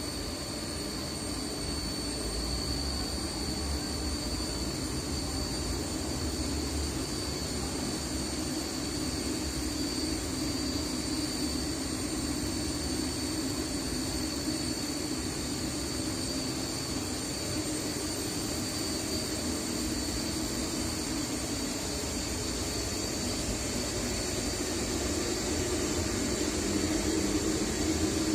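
Weishaupt WG40N natural-gas burner firing on a Viessmann hot-water boiler: a steady roar of fan and flame with a thin high whine running through it, growing a little louder near the end.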